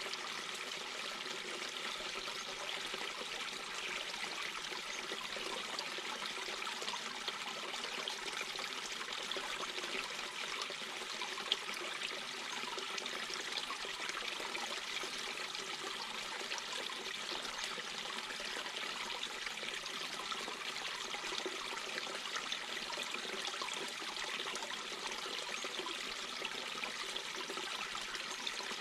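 Mountain brook babbling over stones: a steady, trickling rush of running water.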